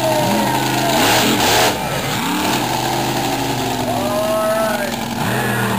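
Monster truck engine revving, its pitch rising and falling repeatedly, with a loud noisy rush about a second in.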